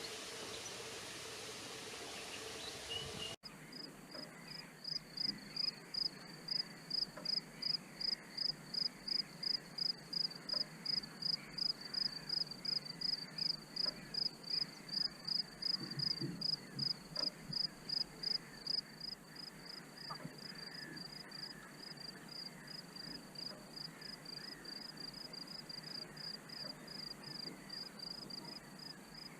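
Insect chirping in a meadow: a high-pitched chirp repeated evenly about twice a second, starting abruptly about three seconds in. Before that, a steady outdoor hiss with a low hum.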